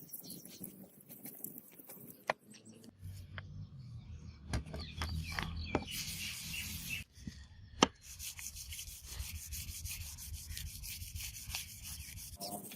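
Hand rubbing with an abrasive in uneven scratchy strokes, with a sharp click nearly eight seconds in.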